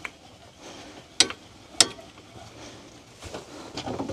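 Two sharp knocks, about half a second apart, a little over a second in, as a log splitter's tongue is worked onto a tractor hitch.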